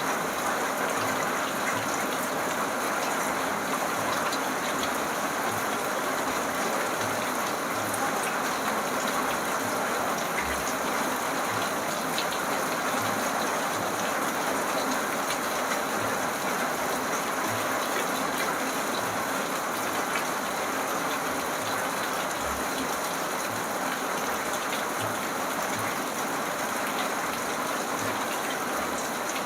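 Steady rain falling, an even hiss with scattered soft low thuds.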